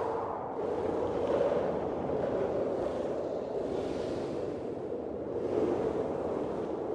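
Blizzard wind blowing, a steady rushing noise that swells in gusts a few times.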